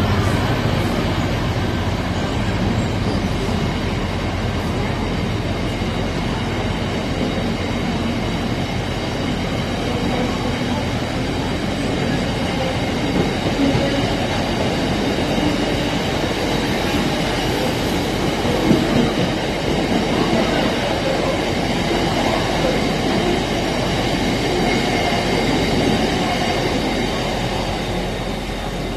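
Train rolling past on the line: a steady rumble of wheels on rail with a faint high wheel squeal above it, easing off slightly near the end.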